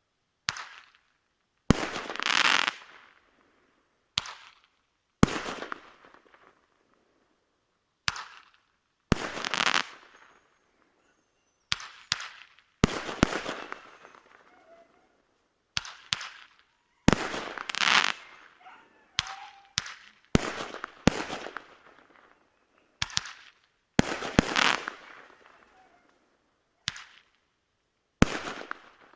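Fireworks going off: a long irregular string of sharp bangs, some in quick pairs, each trailing off in a fading crackle and echo.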